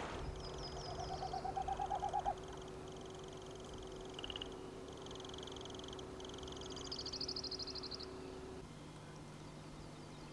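Birds singing high, fast trills in short repeated phrases, with a lower pulsed call rising slightly in pitch during the first two seconds. A faint steady hum runs underneath.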